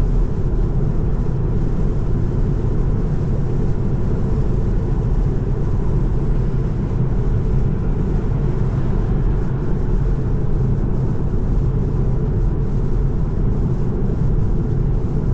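Steady road and tyre noise of a Tesla electric car driving at highway speed on a wet road, a low, even rumble with no engine note.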